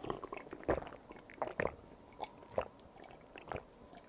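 A person chewing tteokbokki rice cakes close to the microphone: a run of short, wet mouth clicks and smacks, about two a second.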